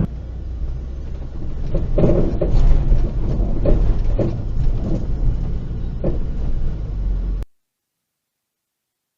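Steady low vehicle rumble, road and engine noise as a dashcam picks it up, with several dull knocks between about two and six seconds in. It cuts off abruptly to silence about seven and a half seconds in.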